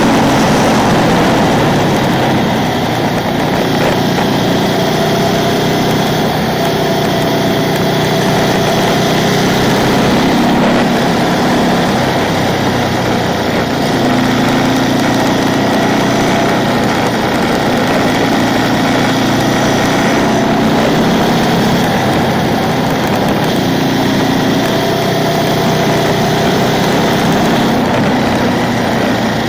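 Ducati 999's L-twin engine running hard on the road, its pitch climbing and falling again and again as the bike accelerates and changes gear, over a steady rush of wind noise.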